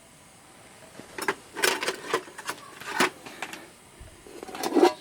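Camp cookware and utensils clattering and scraping: a run of sharp knocks from about a second in, some ringing briefly like metal, the loudest near the end.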